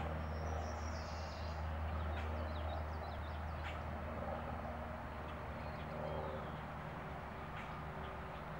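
Wild songbirds chirping in short, high calls, most of them in the first four seconds and sparser after, over a steady low hum.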